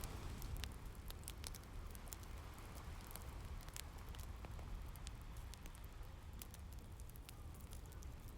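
Rain and crackling fireplace ambience: a steady low rumble with many small, irregular crackles and pops.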